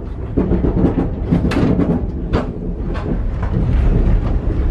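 Steady low rumble of a moving passenger sleeper train heard from inside the carriage, with a few sharp clacks standing out over it.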